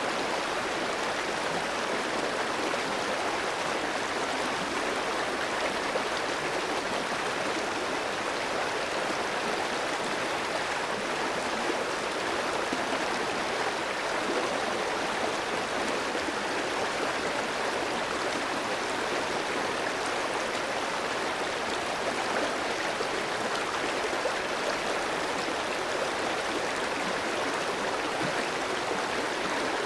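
Clear, shallow stream running steadily over rocks, a continuous rushing and gurgling of flowing water.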